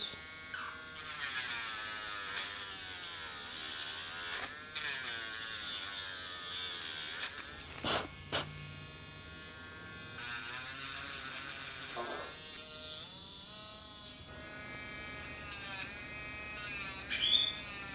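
Small electric rotary grinding tool filing down a parrot's beak to reshape it. The motor whine wavers up and down in pitch as it presses on the beak. There are a couple of sharp clicks about eight seconds in and a brief high call near the end.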